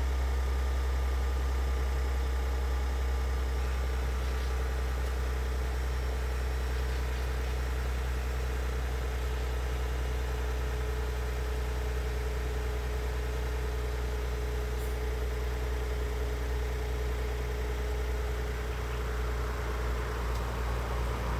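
Maserati Levante GranSport SQ4's twin-turbo V6 running steadily with a low, even drone. A rushing hiss grows near the end.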